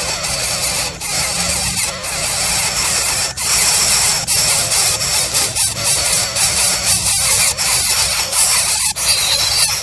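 Baby coucal giving harsh, hissing squeals, nearly continuous with brief breaks every second or two.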